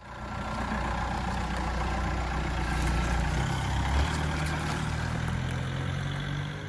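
Diesel-swapped Jeep TJ Wrangler's VW 1.9 TDI (BEW) turbodiesel engine running, its pitch stepping up about halfway through.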